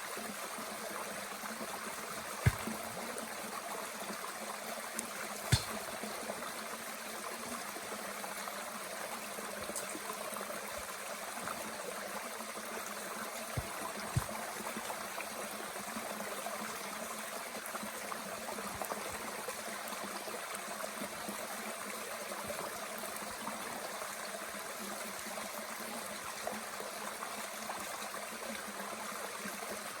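Steady rush of a mountain stream, with a few sharp pops from a small wood fire burning in a Bushbox twig stove: two about 2 and 5 seconds in, and a close pair about 14 seconds in.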